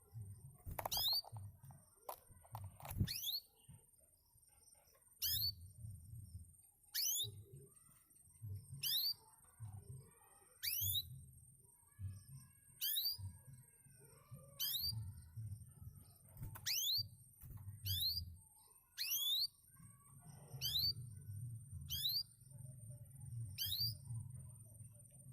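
Canary giving a high, steeply falling whistled call over and over, about once every two seconds, over a faint steady high whine.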